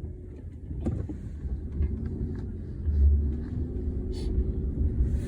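Car engine running with a steady low rumble, heard from inside the cabin; the rumble swells briefly about three seconds in.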